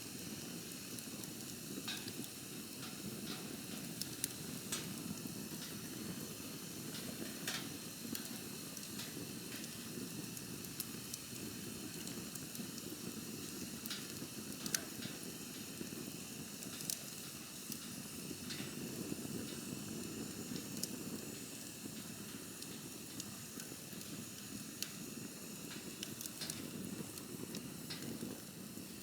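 Campfire burning: a steady low rush of flames with scattered sharp crackles and pops, a few of them louder than the rest.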